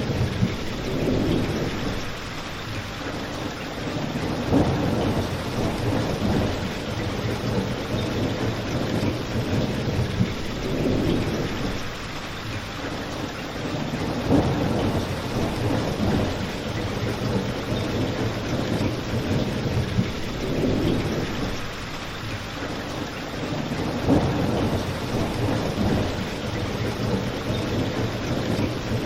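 Steady rain falling, with a low rumble that swells and fades every few seconds.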